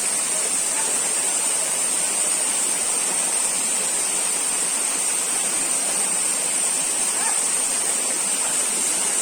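Waterfall: a steady, unbroken rush of falling water, with a steady high-pitched hiss running through it.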